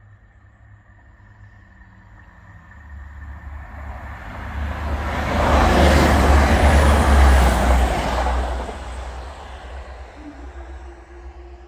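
Class 175 diesel multiple unit passing: the engine and wheel noise builds up, is loudest for a few seconds about six seconds in, then fades away.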